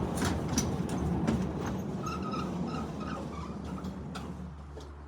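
A vehicle engine running with a steady low rumble and scattered clicks and knocks, fading out gradually toward the end.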